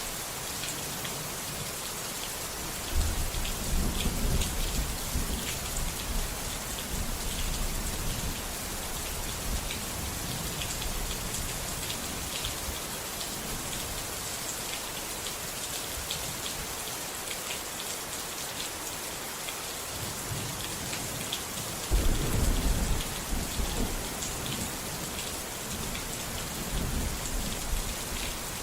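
Steady rain with a fine patter of drops, and two low rolls of thunder: one a few seconds in, another about two-thirds of the way through, each starting suddenly and fading over several seconds.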